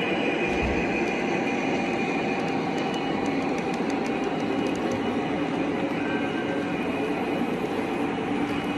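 Train rolling by: a steady rolling rattle of cars on the rails, with a run of light clicks about three to five seconds in.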